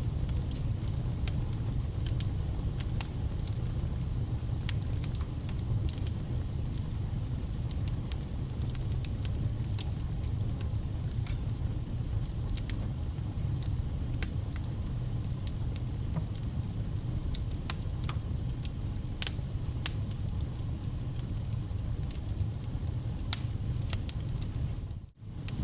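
Wood fire burning with a steady low roar and frequent sharp crackles and pops of burning logs. Near the end the sound drops out for a split second.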